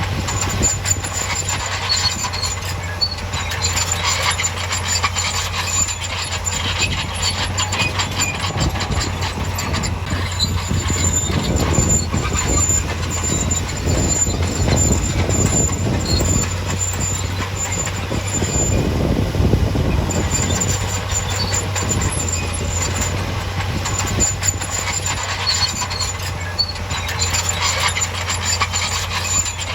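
Heavy construction machine running: a steady engine drone with continual metallic clanking and an on-and-off high squeal, like steel crawler tracks working.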